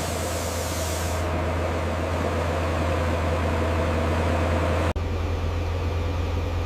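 Heavy diesel construction machinery engine running steadily with a deep drone, with a hiss over it in the first second. The sound breaks off for an instant about five seconds in, then carries on.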